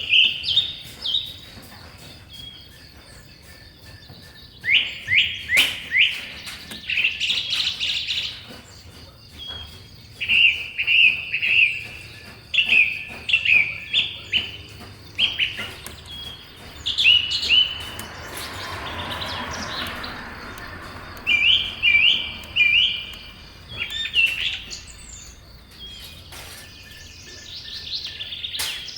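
A bird chirping in repeated bouts of quick, short, high notes, with pauses between the bouts. A faint steady high tone runs behind it, and a soft rushing noise swells and fades about two-thirds of the way through.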